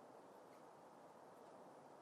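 Near silence: faint, steady background hiss with no distinct sound.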